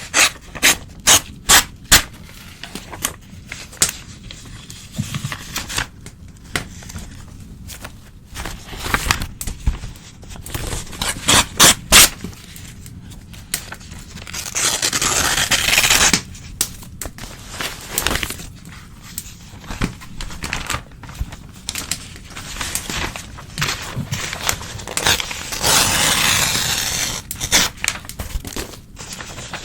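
Old newspaper being torn by hand: a run of short, sharp rips, with two longer tears of about two seconds each, one near the middle and one near the end.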